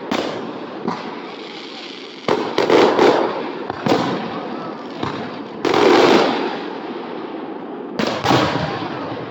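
Aerial fireworks exploding overhead: a run of sudden bangs a second or few apart, each trailing off in a rumbling echo, with a few smaller pops between the big ones.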